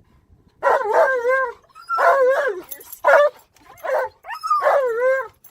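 Alaskan malamute loudly howling and 'talking' in excitement, in about four drawn-out calls that waver up and down in pitch, the last one longest.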